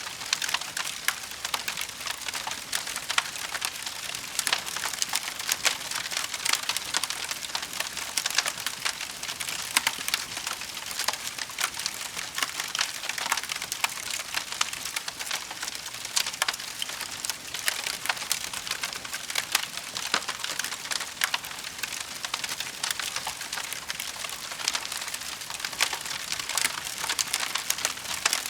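Wood fire crackling, with a steady run of dense, irregular snaps and pops and no break.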